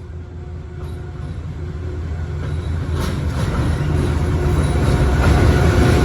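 Train approaching, its low rumble growing steadily louder, with a steady mechanical hum joining in about halfway through.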